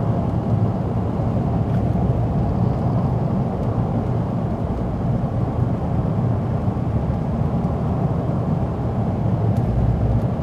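Steady low rumble of a car in motion, road and engine noise heard from inside the cabin, unchanging throughout.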